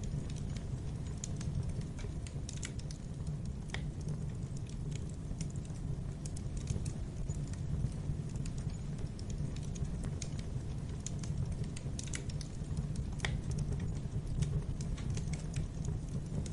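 Wood fire crackling in a fireplace: a steady low rumble of the flames with scattered, irregular sharp crackles and pops, a couple of them louder.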